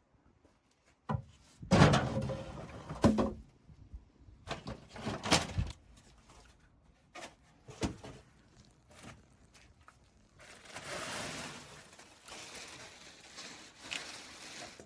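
A series of sharp knocks and clunks, the loudest two about two and three seconds in, followed by about four seconds of steady hiss.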